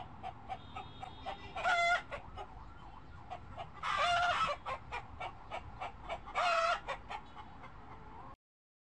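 Fowl calling: three loud, short squawking calls about two seconds apart, with soft short clucks in between. The sound cuts off suddenly near the end.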